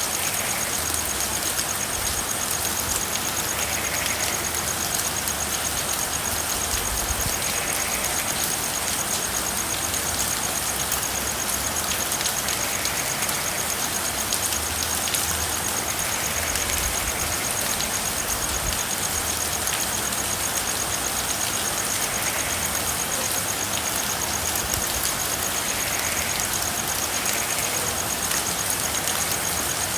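Steady rain, with a faint call repeating about every four seconds that fits frogs calling, and a continuous high-pitched trill above it.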